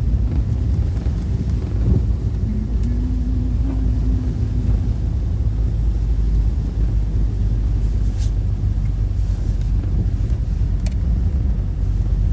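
Steady low road and engine rumble inside a Honda Element's cabin while driving, with a faint hum for a few seconds near the start and a few faint ticks.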